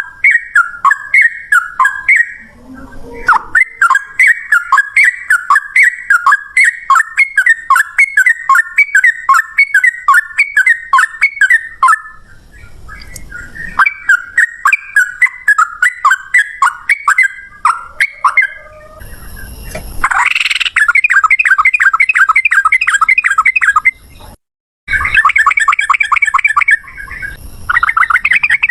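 Sooty-headed bulbul (trucukan) singing its rapid 'ropel' song: a long run of quick, repeated chattering notes. About twenty seconds in it breaks into a faster, louder trill, with a brief cut-out near the end.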